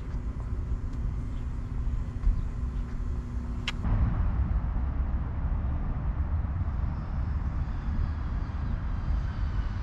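Steady low rumble of street traffic, with a faint steady hum in the first few seconds; the sound changes abruptly about four seconds in.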